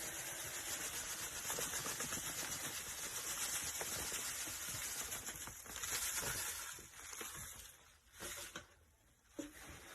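Sponge soaked with foamy cleaning suds being squeezed, a dense wet crackling and squelching of the lather. It fades after about six seconds, then two short squishes follow.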